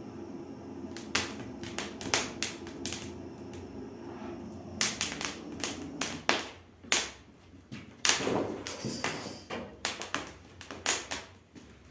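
Wood fire crackling in a fireplace firebox, with irregular sharp pops from slightly damp firewood.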